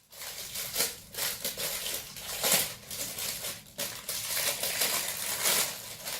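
Hands handling and shaping plasticine close to the microphone: irregular crackling and crinkling noises with short clicks.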